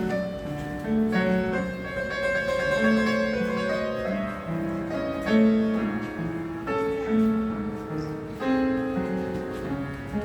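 Piano playing a slow melody of held notes over a lower accompaniment.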